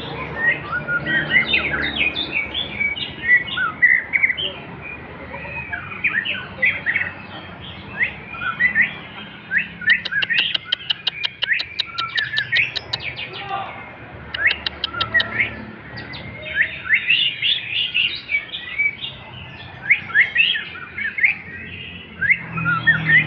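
Male white-rumped shama singing: a continuous run of loud, varied whistled phrases sliding up and down in pitch. Its song includes a fast, even rattle of about seven ticks a second, running for about three seconds near the middle and briefly again soon after.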